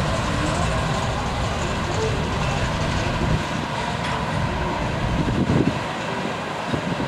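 Train rolling along the tracks, a steady rumble of wheels on rail.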